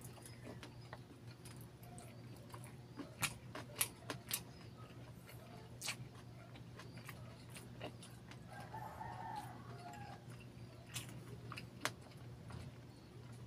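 Close-up wet chewing of saucy barbecue chicken and rice, with scattered sharp mouth clicks and smacks, over a steady low hum. About two-thirds of the way in comes a short, faint call lasting about a second.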